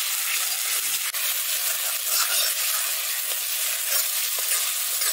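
Wet ground-spice paste sizzling steadily in hot oil in a kadhai, stirred with a metal spoon as it is fried down.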